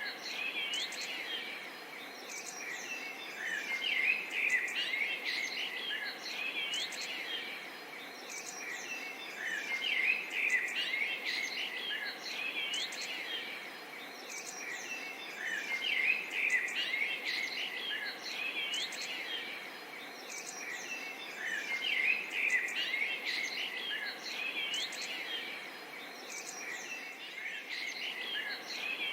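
A chorus of many birds chirping and whistling over a faint steady background hiss, the calling swelling and easing in a pattern that repeats about every six seconds.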